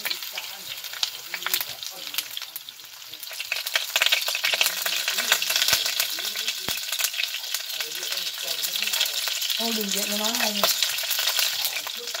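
Meat-stuffed snake frying in hot oil in a pan, a steady sizzle full of fine crackles that grows louder about four seconds in.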